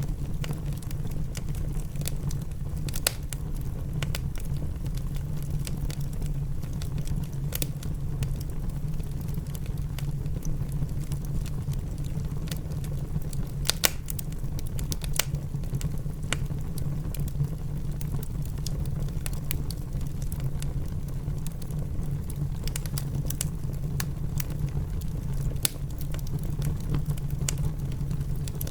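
Wood fire crackling in a fireplace, with sharp pops scattered irregularly throughout, over a steady low rumble of rain.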